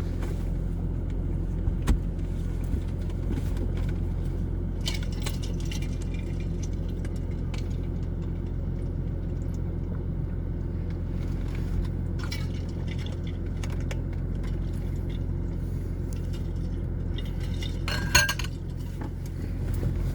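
Steady low drone of a car heard from inside, with loose small objects clinking and jingling a few times over it.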